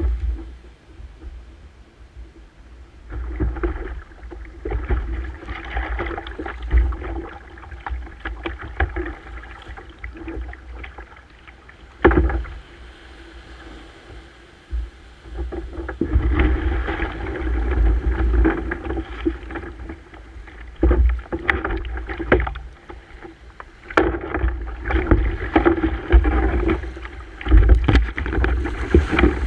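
Water splashing and sloshing around a kayak at sea, coming and going in uneven surges over a heavy low rumble. There are a couple of sharp knocks, about twelve and twenty-four seconds in.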